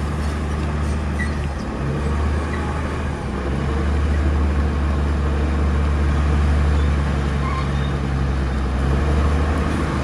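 Bulldozer's diesel engine running steadily under load, a deep even drone that grows slightly louder a few seconds in.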